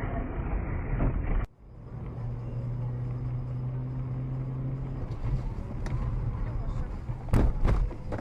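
Car dashcam recordings of engine and road rumble, with an abrupt cut to a steadier low engine hum after about a second and a half. Near the end come a few loud, sharp knocks or thumps.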